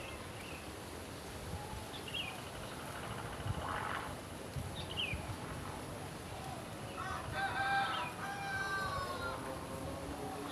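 A rooster crows once, a drawn-out call of about two seconds starting about seven seconds in. Short high falling chirps from a small bird come a few times around it.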